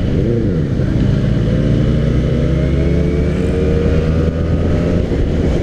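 Benelli 600i inline-four with an aftermarket Ixil exhaust pulling hard under acceleration, its note rising steadily for about five seconds, then dropping near the end as the revs fall for a gear change.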